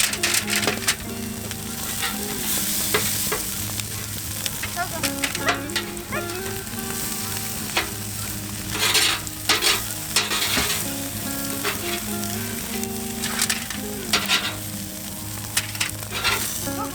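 Food frying and sizzling in a hot pan, with frequent crackles and pops, over soft background music.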